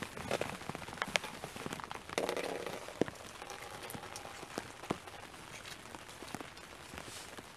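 Raindrops pattering on a fishing shelter's fabric canopy, falling as irregular ticks. A brief rustling stands out about two seconds in.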